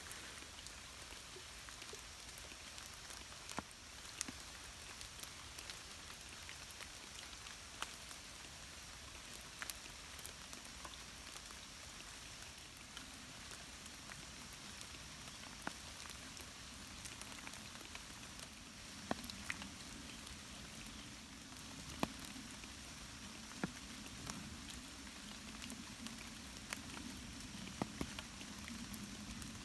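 Steady light rain, with scattered sharp drip ticks falling close by. A low hum comes in during the second half.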